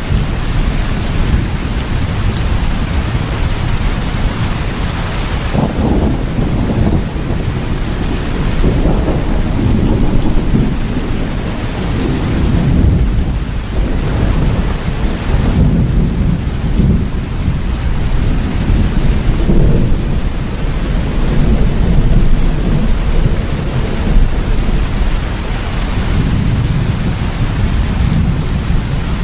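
Steady heavy rain with rolling thunder, the low rumble swelling and fading several times.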